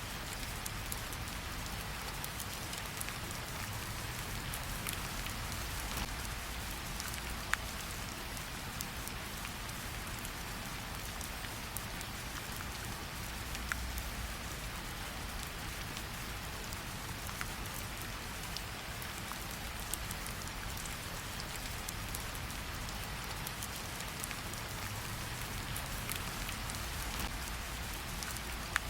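Steady rain falling on a surface. A few sharp crackles, several seconds apart, come from a wood fire.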